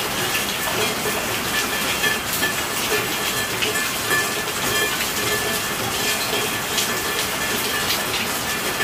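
Steady rainfall: a dense, even hiss of rain with many individual drops ticking close by.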